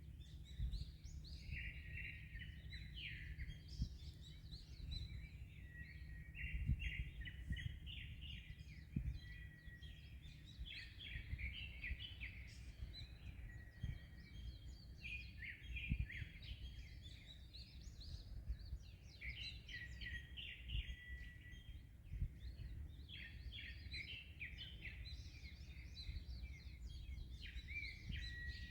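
Many small birds chirping and trilling without pause, overlapping calls, over a steady low rumble of wind and sea.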